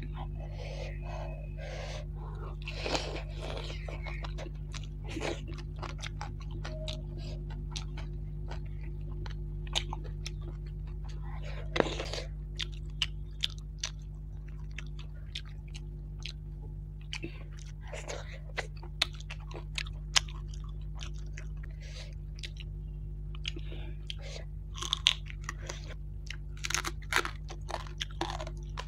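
Close-up chewing and crunching as fried fish and rice are eaten by hand, with many short wet mouth clicks and smacks, over a steady low hum.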